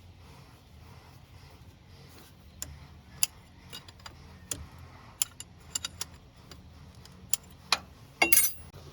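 Irregular metallic clicks and taps of hand tools and small metal parts being handled, ending in a louder clattering clink with a brief ring near the end.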